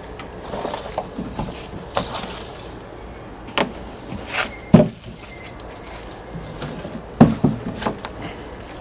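Irregular knocks and clatters of things being handled, with two sharp, loud knocks about five and seven seconds in.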